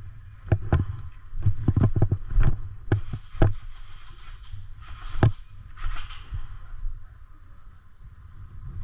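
A quick irregular run of sharp knocks and clicks, about a dozen in the first three and a half seconds, then one more loud knock about five seconds in and a brief rustle, over a low rumble.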